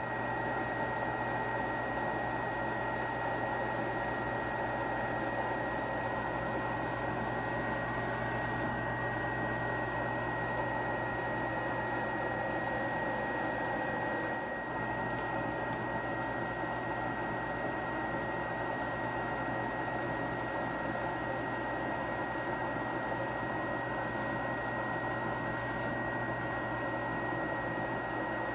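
Snyder General GUA gas furnace firing with its combustion chamber cover off: a steady rushing noise with a high, steady whine and a low hum, dipping briefly about halfway through. With the cover off, the positive-pressure combustion chamber pushes the flame out the front, a flame rollout.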